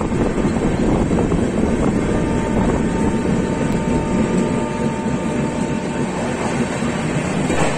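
Rajdhani Express passenger coach running through a station: a steady rumble of wheels on the rails, with a faint steady whine for a few seconds in the middle, heard from beside the coach's side.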